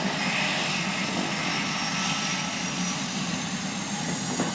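Seaplane air taxi's propeller engines running steadily, with one short click near the end.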